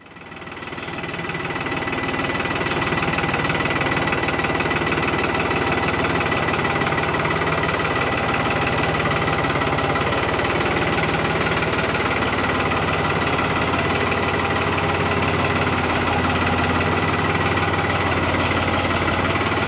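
Tractor engine running at a steady idle, fading in over the first couple of seconds and then holding an even drone with a thin steady whine above it.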